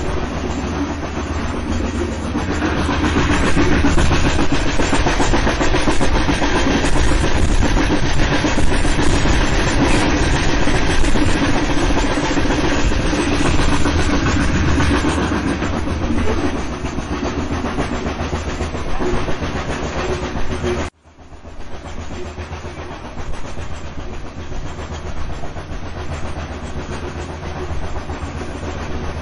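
Train running on rails: a steady rumble with wheel clatter. The sound cuts off abruptly about two-thirds of the way through and comes back quieter.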